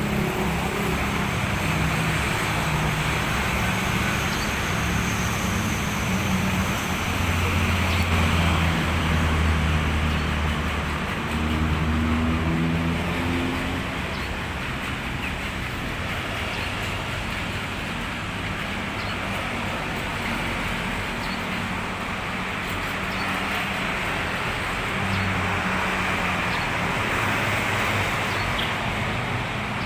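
Steady road traffic with vehicle engines running past, loudest about a third of the way in and again near the end. Faint short sparrow chirps come now and then over it.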